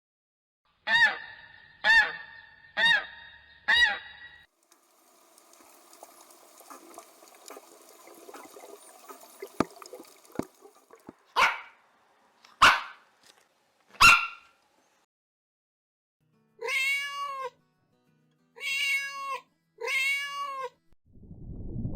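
A run of separate animal-call clips, one after another: four short pitched calls about a second apart, a stretch of noise with scattered clicks, three loud sharp calls, then after a pause four arching, meow-like calls.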